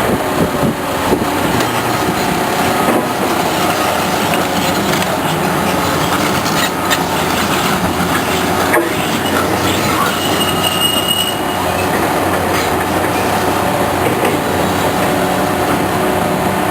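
Caterpillar heavy machine working: its diesel engine runs steadily under load, with scattered metal clanks and a brief high squeal about ten seconds in.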